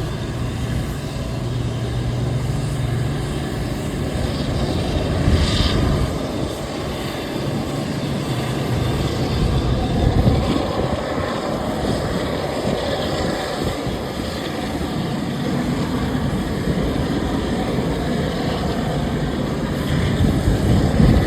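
Steady jet aircraft engine noise at an airport, a continuous rushing drone with a low hum in the first few seconds.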